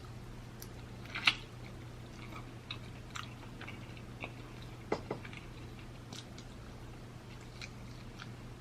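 Soft chewing with scattered small mouth clicks, the loudest about a second in and again near the middle, over a steady low hum.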